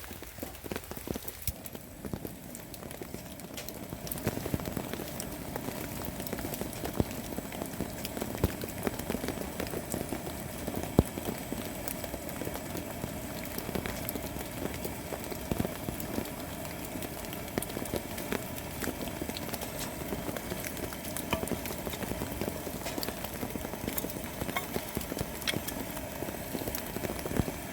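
Campfire catching and crackling, with dense, irregular small pops and snaps.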